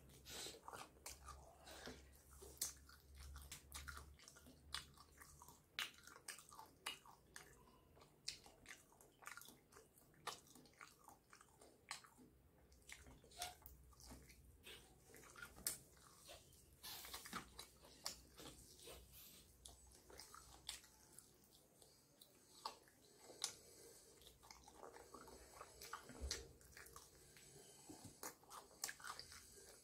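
A person biting into and chewing crispy fried chicken leg pieces: many short, irregular crunches and mouth clicks, quiet overall.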